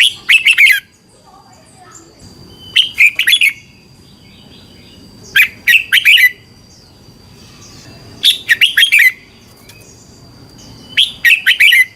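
Red-whiskered bulbul singing its short, rich warbled phrase five times, one about every two and a half to three seconds, each phrase lasting under a second. A faint steady high tone runs underneath.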